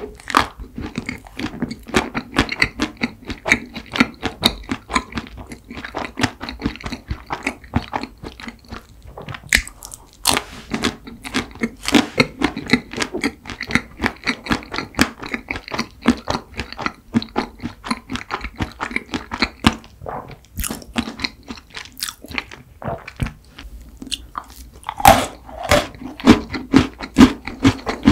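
Close-miked biting and chewing of a chocolate cookie ice cream sandwich: a steady run of crunches, chew after chew, growing louder near the end.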